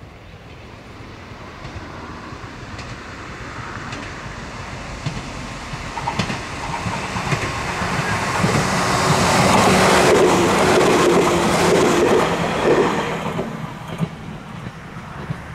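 A train passing close by, growing louder to a peak about ten seconds in and then fading, with the wheels clicking over rail joints as it goes past.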